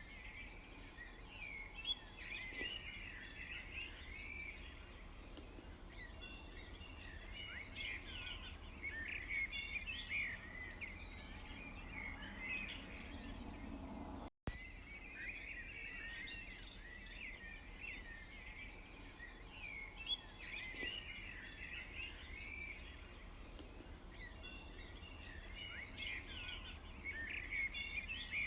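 Several small songbirds chirping and twittering, with short, rapid calls overlapping one another over a steady low background hum. The sound cuts out completely for a split second about halfway through.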